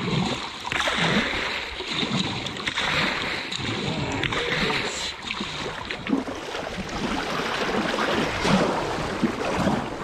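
River water rushing and splashing around a kayak in a rocky rapid, with paddle splashes and a few short knocks against the hull as it is worked off a rock.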